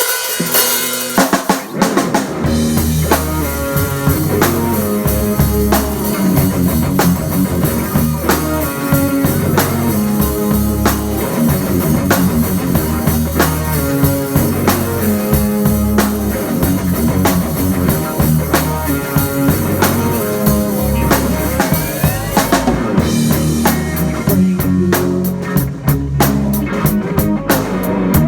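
Live band playing a song's instrumental opening, the drum kit driving a steady beat with kick and snare under bass notes. The cymbals drop out briefly about 23 seconds in before the beat carries on.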